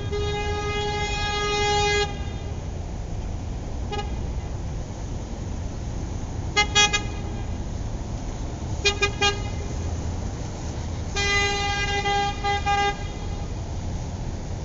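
Car horn honking over a steady low rumble. A long honk ends about two seconds in, followed by a single short toot. Then come two quick groups of about three short beeps, and a second long honk of nearly two seconds near the end.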